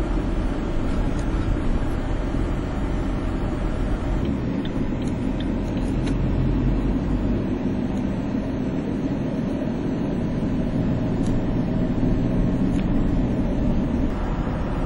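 Steady low rumble of highway traffic and road noise, heavy trucks running alongside.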